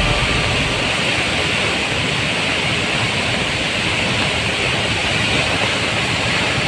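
Heavy rain pouring down: a steady, unbroken rush of water.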